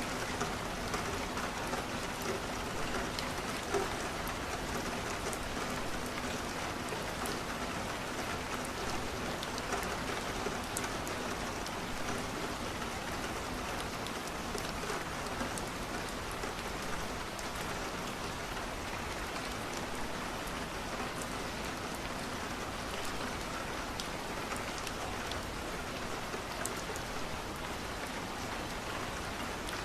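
Steady rain falling on a window, an even hiss with many scattered faint ticks throughout.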